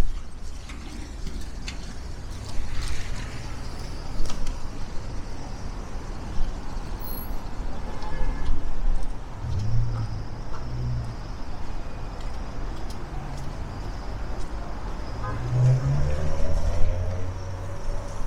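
City street ambience dominated by road traffic: cars and buses running past under a steady low rumble, with engine notes swelling a couple of times.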